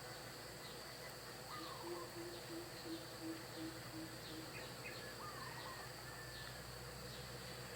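Forest birds calling over a steady, high-pitched insect drone: a low bird repeats a series of about eight short hoots, about three a second, in the first half, while other birds give short sweeping chirps and thin high down-slurred notes.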